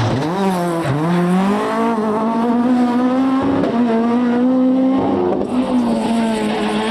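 Rally car engine revving hard on a stage, its pitch dipping sharply twice in the first second as the driver lifts and shifts, then climbing and holding high. It drops briefly about five seconds in and falls away near the end as the car backs off.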